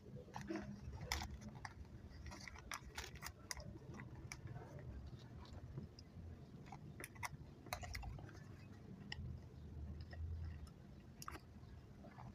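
Close-miked chewing of chewy chocolate candy: irregular wet clicks and smacks of the mouth and teeth, with a low rumble of jaw movement underneath.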